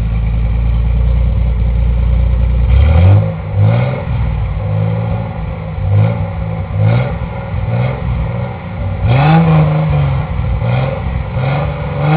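Datsun 280Z's 2.8-litre inline-six idling steadily, then from about three seconds in blipped repeatedly on the throttle: about nine short revs, roughly one a second, with one longer rev after about nine seconds.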